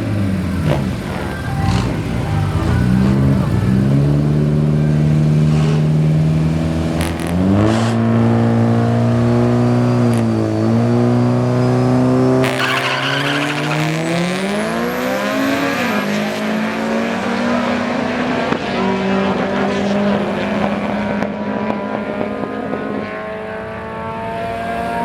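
Turbocharged AWD DSM four-cylinder engine running hard, its pitch climbing in several steps, with a burst of hiss about halfway through.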